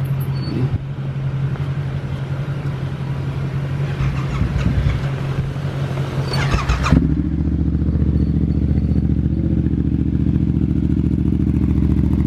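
Vehicle engine running with a steady hum that changes abruptly about seven seconds in to a lower, evenly pulsing note, with a brief clatter just before the change.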